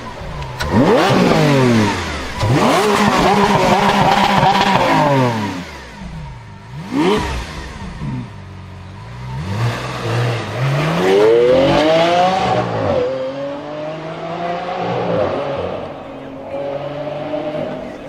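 High-performance car engines revving and accelerating hard, the pitch climbing and then dropping sharply several times, as at gear changes or lifts off the throttle.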